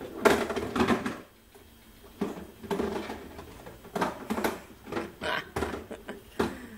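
Kitchen things clattering and knocking together as a toddler pulls them out of a cupboard, in several short, uneven bouts.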